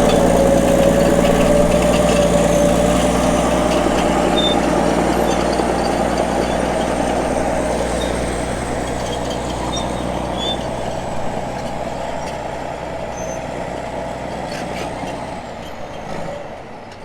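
Heavy diesel engine running steadily, gradually growing fainter toward the end.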